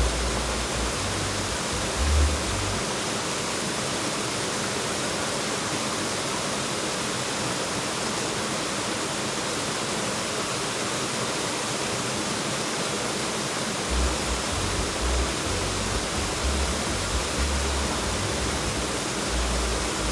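Steady rush of flowing water, as in a river pool fed by a cascade. Low rumbling buffets come through in the first few seconds and again from about fourteen seconds in.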